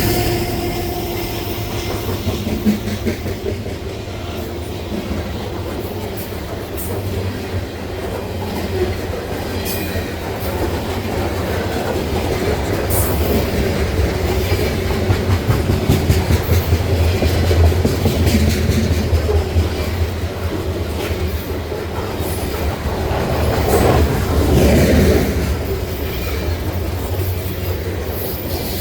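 Freight train cars rolling past in a steady low rumble, wheels clacking over rail joints, with brief high-pitched wheel squeals now and then.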